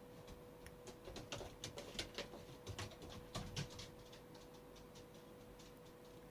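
A quick run of small, faint clicks and taps as lip products are handled and opened, bunched in the first half, then only faint room tone with a steady hum.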